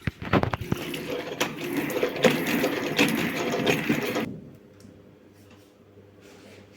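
Rapid, dense clattering and rattling of small hard objects for about four seconds, stopping abruptly, then a few faint ticks.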